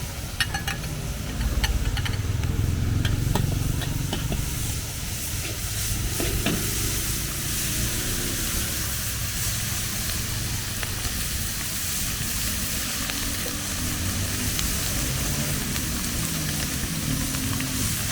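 Food stir-frying in a hot wok, a steady sizzle with a low rumble beneath, and sharp metallic clinks of the utensil against the pan during the first few seconds.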